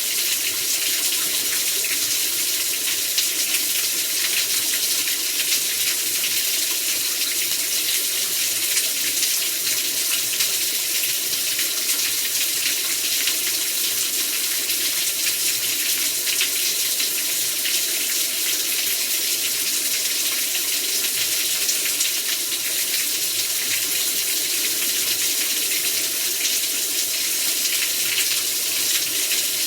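Heavy rain pouring steadily, a dense even hiss with fine pattering, unbroken throughout.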